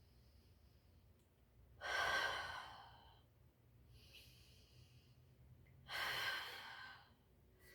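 A woman breathing audibly while holding a yoga pose: two long, loud exhales about four seconds apart, with a fainter inhale between them.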